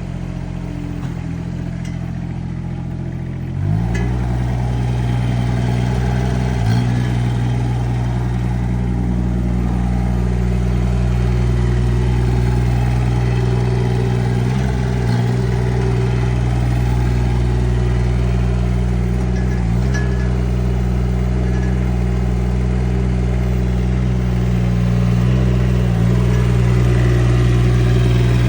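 Rippa R15 mini excavator's engine running; about four seconds in it picks up speed and then runs steadily at the higher speed, with a few brief dips.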